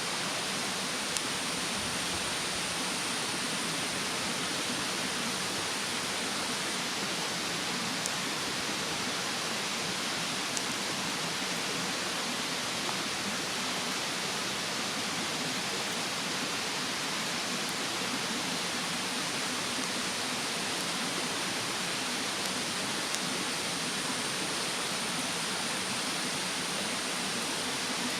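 Steady rushing of a mountain stream, with a few sharp crackles from a wood bonfire burning close by. A faint high insect trill comes and goes.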